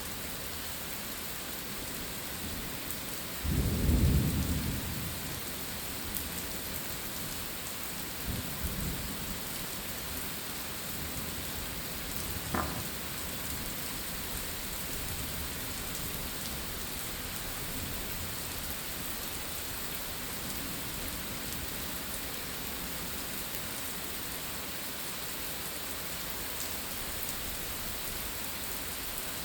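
Steady rain falling, with a clap of thunder about three and a half seconds in that rumbles for a second or so and is the loudest sound. A fainter rumble follows around eight seconds, and a short sharp knock comes about twelve seconds in.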